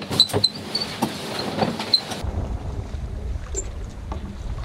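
Sailboat under sail: a few sharp knocks and clicks on deck in the first two seconds, then a sudden change to wind rumbling on the microphone.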